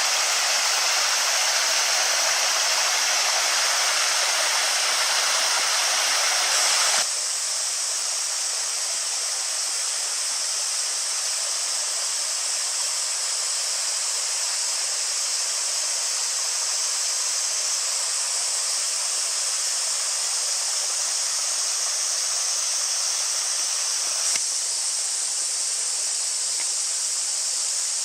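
A small stream flowing steadily, an even rush and babble of water. It turns a little quieter and thinner about seven seconds in.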